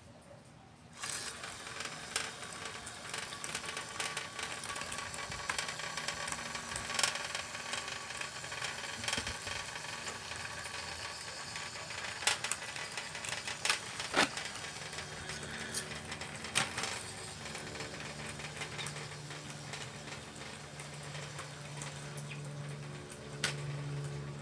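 1/12 scale radio-controlled Liebherr 954 excavator model at work: a dense crackle of small clicks and clatters, with a few sharper knocks. A low steady hum comes in about halfway through.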